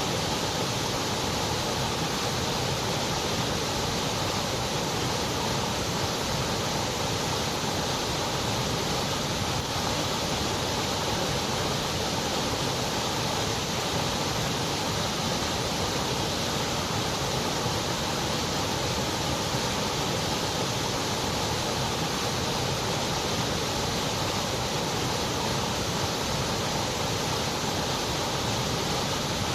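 Continuous white noise: a steady, even hiss with no rhythm or change.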